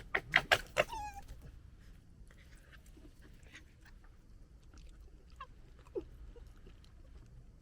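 Young red foxes gekkering: a burst of loud, harsh chattering calls in the first second, ending in a falling squeal. Quieter scattered chatters and clicks follow, with one short call about six seconds in.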